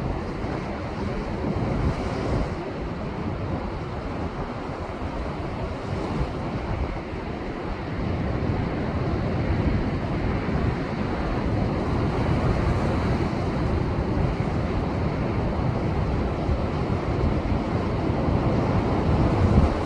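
Rough post-typhoon surf breaking and surging against a rocky shoreline: a continuous heavy wash of water with deep low rumble, slightly louder from about halfway through, with wind buffeting the microphone.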